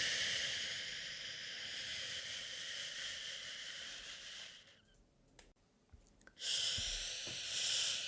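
A person shushing a baby: a long "shhh" that fades out about halfway through, a short pause, then another "shhh" that starts and shifts in pitch.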